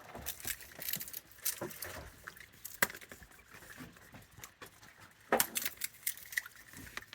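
Irregular small clicks and clatter of raccoons eating from trays and dishes, with a sharper knock about three seconds in and a short burst of clatter about five seconds in.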